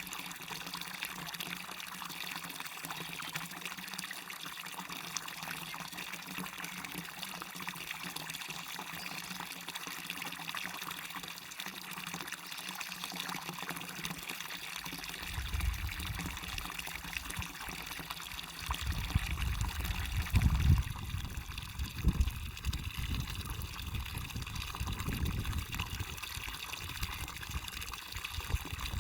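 Waterfall water rushing and splashing in a steady hiss. From about halfway through, an uneven low rumble comes and goes under it.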